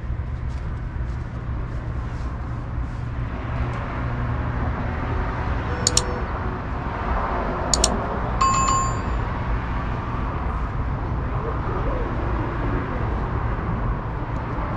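Metro rail ambience: a steady low rumble, with two sharp clicks a couple of seconds apart about six seconds in, then a single short bell ding.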